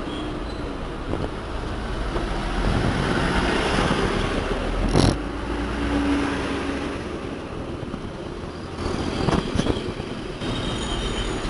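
Heavy vehicle's diesel engine running steadily, with a sharp knock about five seconds in and a few clicks near the end.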